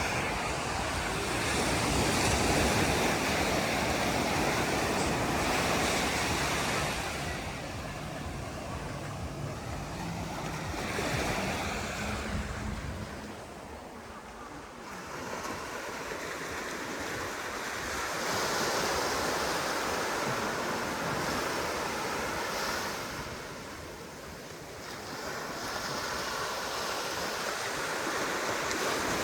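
Sea waves breaking and washing up the sand, the surf swelling and fading in slow cycles several seconds apart. Low wind rumble on the microphone during the first half.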